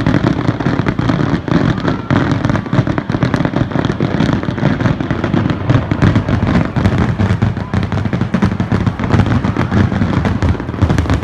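Fireworks going off in a rapid, continuous barrage of bangs and crackles, so dense that the bursts run together.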